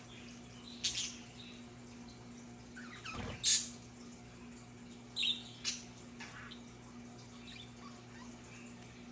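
Pet budgerigars giving a few short, scattered chirps and squawks, the loudest about halfway through, over a faint steady low hum.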